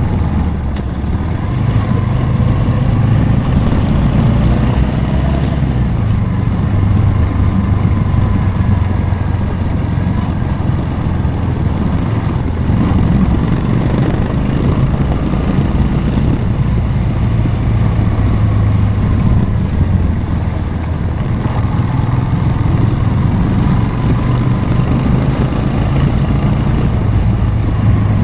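Motorcycle engine running steadily while riding along a road, its pitch drifting up and down a little with the throttle.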